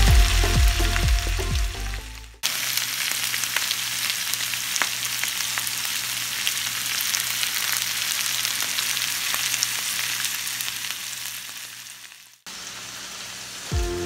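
Background music with a steady beat for about the first two seconds. After a cut, food frying in hot oil gives a steady sizzle with scattered crackles for about ten seconds, fading out. The music comes back near the end.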